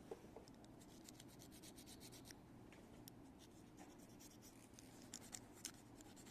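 Faint rubbing and scratching with scattered light ticks over a low steady background.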